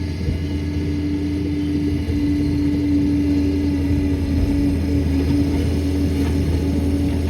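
Liebherr 746 crawler dozer's diesel engine running steadily under work, a deep rumble with a constant droning hum; it grows a little louder about two seconds in.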